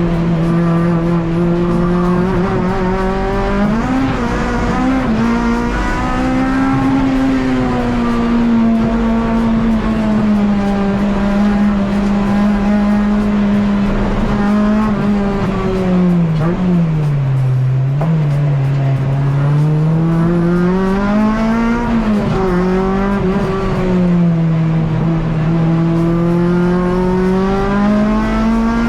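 Honda K24 four-cylinder engine in a Civic EG race car running hard under load. Its note rises and falls continuously with the revs, dropping to its lowest about two-thirds of the way through, then climbing again.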